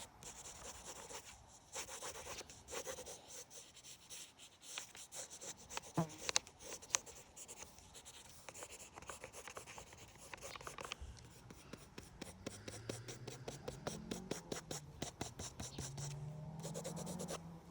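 Quick, scratchy drawing strokes on paper as a sketch is traced and redrawn, in dense runs with a few sharper strokes a few seconds in.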